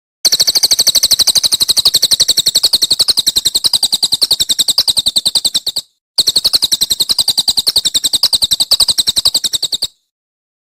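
Songbird giving a rapid 'tembakan' burst, one high sharp note repeated many times a second in a long even run. A brief break near the middle separates two bouts.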